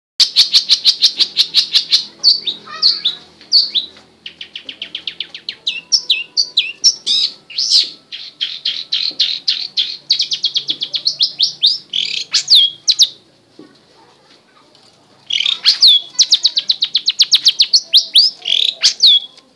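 Long-tailed shrike (cendet) singing loudly: fast rattling runs of sharp high notes, about eight to ten a second, mixed with short slurred whistles that drop in pitch. The song breaks off for about two seconds past the middle, then resumes with the same rapid runs.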